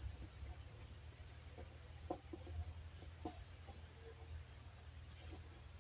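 Birds calling: a few short, low clucking notes, and from about halfway through a run of thin high chirps at roughly three a second, over a steady low rumble.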